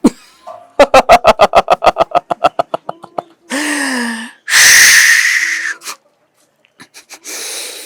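Dramatic music-style sound effect: a quick run of plucked notes that slows as it goes, then a low sliding tone and a loud breathy whoosh, with a softer whoosh near the end.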